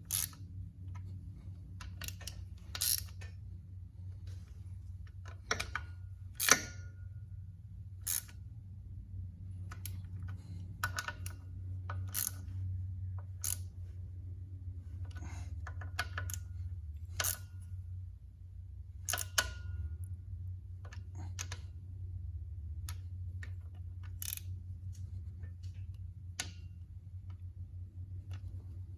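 Scattered sharp metallic clicks and taps of hand tools as the bolts of a newly fitted tractor water pump are tightened, some with a short metallic ring. A steady low hum runs underneath.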